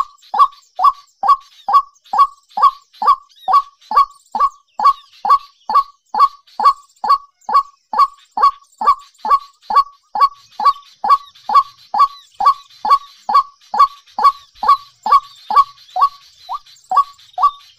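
A bird's call: a short falling note repeated evenly about two and a half times a second, with fainter chirping of small birds behind it.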